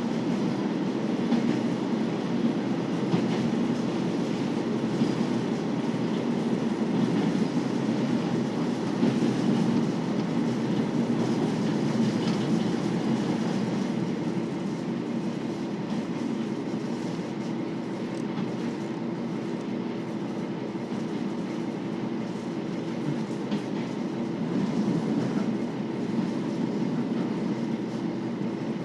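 Running sound inside a KiHa 40 series diesel railcar: the steady rumble of the underfloor diesel engine and the wheels on the rails as the train travels. About halfway through, the sound eases slightly and a steady hum comes in.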